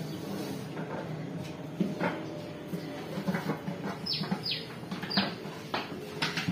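Birds chirping: three quick, sharply falling chirps about four to five seconds in, over a steady low murmur and a few light knocks.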